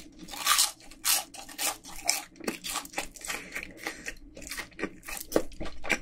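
Close-miked chewing of a fried cheese ball, its crisp crust crunching in quick, irregular bites.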